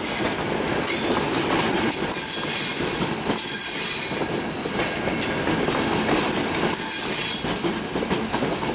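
Locomotive-hauled passenger coaches rolling slowly out of a station. The wheels squeal in high, wavering tones over the steady rumble, with irregular clacks as the coaches cross the rail joints.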